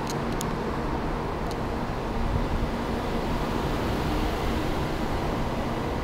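A 700-series Shinkansen train pulling out and gathering speed alongside the platform: a steady rumble of wheels and running gear with a faint hum, and a hiss that builds from about three seconds in. A few faint clicks come in the first second and a half.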